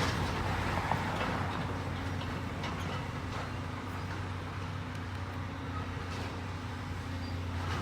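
Heavy diesel engine of demolition machinery running steadily, a low drone with a few faint knocks from the work.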